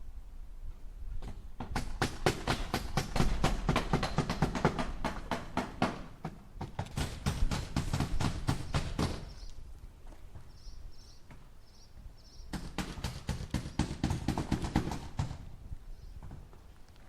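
Hammer driving nails into wood in three runs of rapid strikes, about five blows a second, with pauses between the runs.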